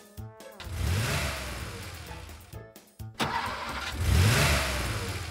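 Cartoon car engine sound effect: the engine starts and revs twice, each rev swelling up and then dying away, over light background music.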